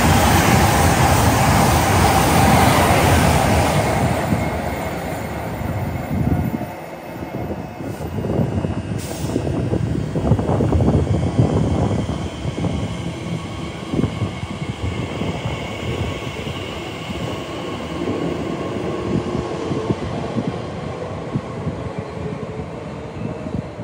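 A train running along the tracks through a station, loudest in the first few seconds and then fading to a lower, uneven rumble of wheels on rails.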